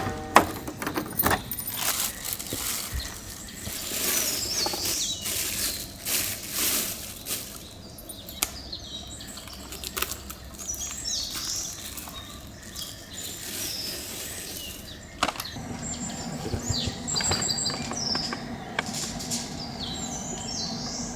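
Birds chirping now and then over scattered sharp clicks and knocks, with a low steady hum coming in about fifteen seconds in.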